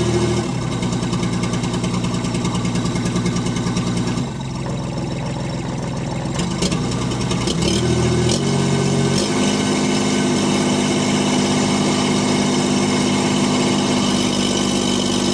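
STL1000's engine running poorly and missing, its speed stepping up and down several times.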